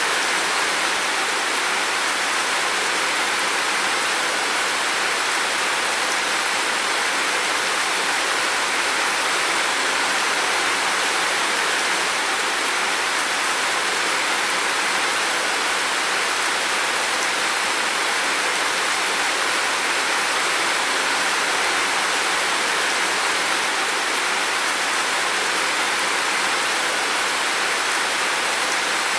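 Heavy rain falling steadily, an even unbroken hiss with no single drops standing out.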